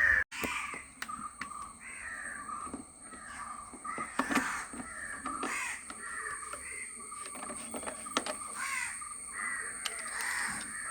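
Crows cawing repeatedly, call after call throughout, with a few short clicks in between.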